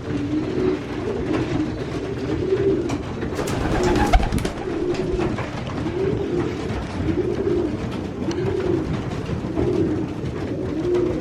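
Racing pigeons cooing, several birds' coos overlapping without a break. A single sharp knock comes about four seconds in.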